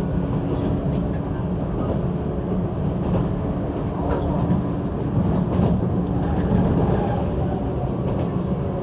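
Interior running noise of a JR East 185 series electric train: a steady rumble of wheels on rail with a few sharp clicks from the track, and a brief high thin squeal about seven seconds in.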